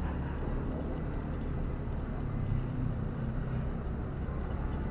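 Motorcycle engine running steadily while riding, with wind rushing over the rider's microphone.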